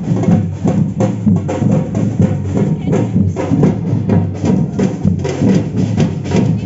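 Samba drum group playing a fast, steady rhythm: deep bass drums under dense, quick strokes of smaller drums and percussion.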